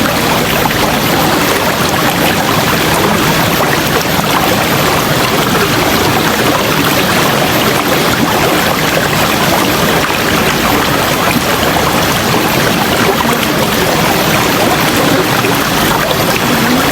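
River water flowing: a loud, steady, even rush of running water.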